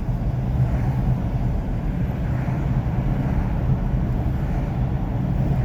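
Steady engine and road noise of a ute being driven, heard from inside the cabin.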